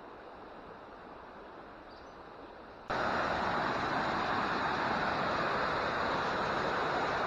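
Steady rushing of a creek and its waterfalls. About three seconds in, the rush jumps abruptly much louder and brighter, then holds steady.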